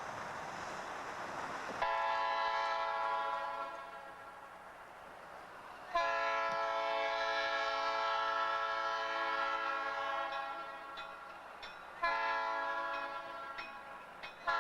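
Locomotive air horn sounding four blasts: long, long, short, and a last long one starting at the end, over the low rumble of the moving train. This is the pattern of the standard grade-crossing signal.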